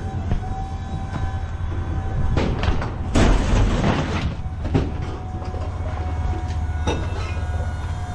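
A vehicle engine idling with a steady low rumble, with a loud hissing burst about three seconds in that lasts about a second, and a few sharp knocks and clanks.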